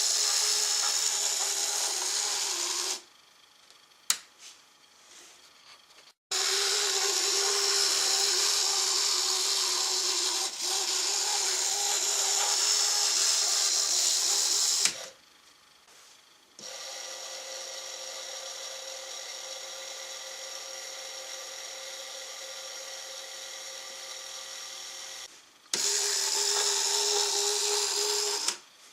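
A small electric motor whining steadily in four separate runs, each starting and stopping abruptly, with short pauses between them. The third run is quieter and higher-pitched than the others.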